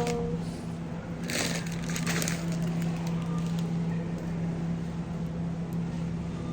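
Packaging being handled, with a brief crinkling rustle about a second and a half in and a smaller one shortly after, over a steady low hum.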